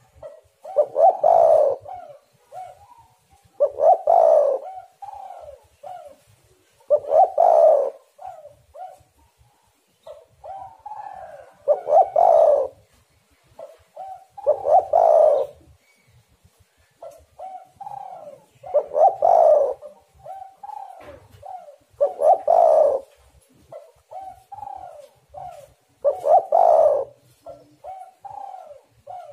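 Spotted dove cooing its song: a phrase repeated about every three to four seconds, each a loud coo followed by a few shorter, softer notes, eight times over.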